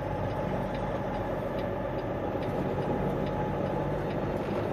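Semi truck's diesel engine running steadily at low speed, heard from inside the cab, with a faint regular ticking over it.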